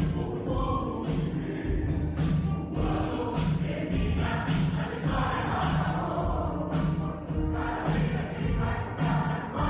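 A mixed choir singing with instrumental accompaniment, over a steady rhythmic beat.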